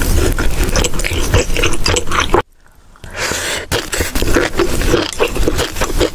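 Close-miked chewing of food, with many sharp crackly clicks. The sound cuts out for about half a second about two and a half seconds in, then the chewing resumes.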